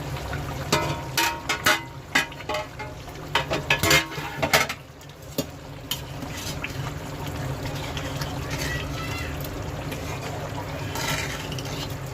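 A covered cooking pot being opened: a run of metal clinks and knocks from the lid and a spoon over the first five seconds, then the chicken curry simmering quietly, with a steady low hum underneath.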